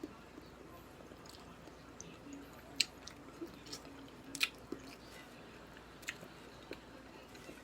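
A person chewing food close to the microphone, with scattered sharp, wet clicks and crunches from the mouth; the two loudest come at about three and four and a half seconds in.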